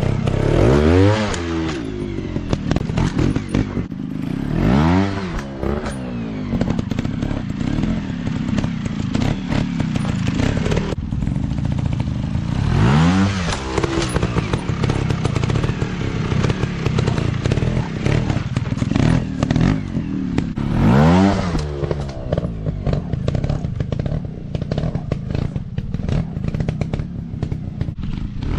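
Dirt bike engine running unevenly while riding off-road, revving up and dropping back four times, with clattering between the revs.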